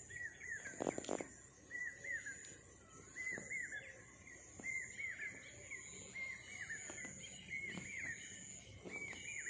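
A small bird calling over and over: short arched chirps in groups of two or three, about once a second. A faint steady high-pitched whine sits behind them, and there are a couple of knocks about a second in.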